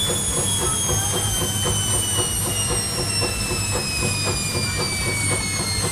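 Beko WM51435 washing machine's motor whining and falling steadily in pitch as the drum slows, over a low hum and a rapid, regular ticking of about four or five strokes a second.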